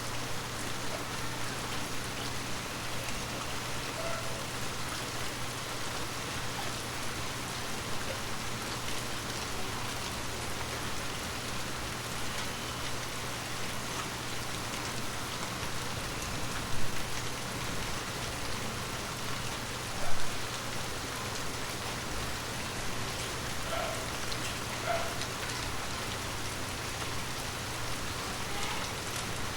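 Steady rain falling on forest leaves, an even patter. Two louder, short taps stand out about halfway through.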